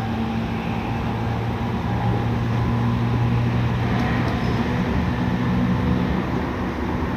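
Running sound heard inside a Tokyu 5000 series electric train car under way: steady rumble of wheels on rail, with a low traction-motor hum from its Hitachi IGBT-VVVF drive.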